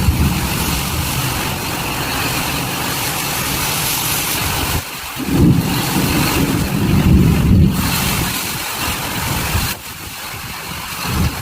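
Storm wind gusting over the microphone: a heavy, uneven rumble with a rushing hiss, dropping away briefly about five seconds in and again near the end.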